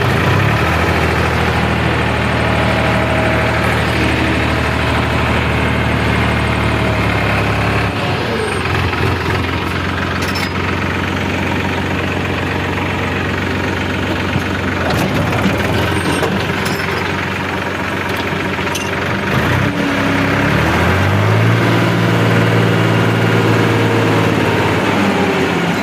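New Holland tractor's diesel engine pulling a heavily loaded trolley. It runs steady at first, drops in pitch and turns rougher about eight seconds in, then picks up again about twenty seconds in and holds steady before easing off near the end.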